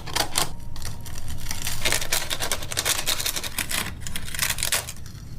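Dry, papery layers of a wasp nest being torn and peeled apart by hand: a dense, irregular crackling and rustling.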